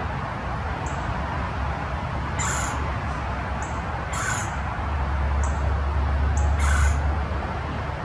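A bird gives three short calls about two seconds apart, with fainter high chirps in between, over a steady background hiss and a low rumble that swells near the middle.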